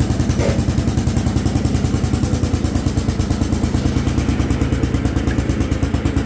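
Allis Chalmers B210 garden tractor's engine running at a steady speed, an even, rapid chugging of firing pulses, with the tractor in gear and moving.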